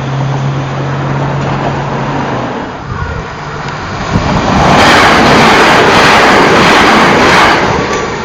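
A road vehicle passing close by over the level crossing, rising to a loud rush of tyre and engine noise about four seconds in that fades near the end. Before it, a steady low hum dies away.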